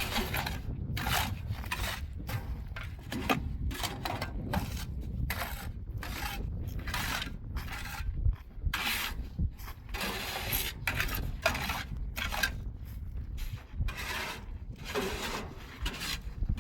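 Irregular scraping and rubbing noises, about one or two a second, over a steady low rumble.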